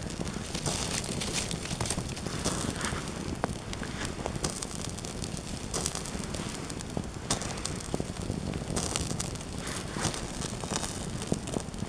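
Small campfire of spruce resin and twigs catching and burning, crackling with frequent sharp irregular pops over a steady hiss.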